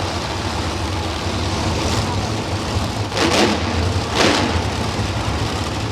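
Monster truck engines rumbling steadily, with two short, louder noisy bursts about three and four seconds in.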